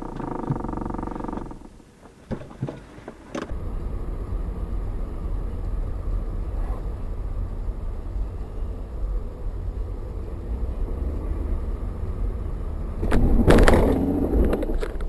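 Steady low rumble of a moving car's engine and road noise, with a louder, rougher stretch near the end. In the first second and a half there is a short steady pitched tone, before the rumble begins.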